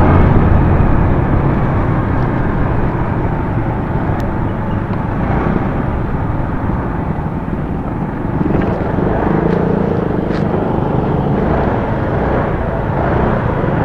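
Riding noise from a motorcycle picked up by an action camera's external mic: heavy wind rumble over the engine, still there despite a homemade anti-wind cover on the mic. It grows a little louder about eight and a half seconds in.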